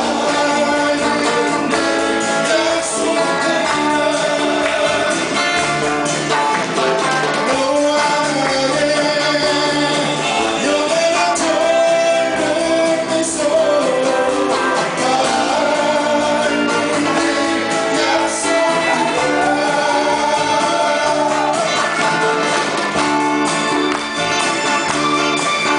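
Live amateur band playing 7080-era Korean pop: a singer's voice over electric guitars, keyboard, bass and a steady drum beat.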